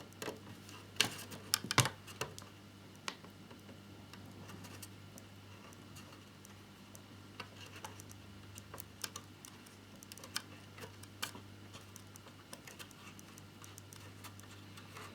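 Scattered small clicks and taps of a screwdriver and small plastic model parts being handled as a screw is driven into a scale-model motorcycle, the sharpest clicks in the first two seconds.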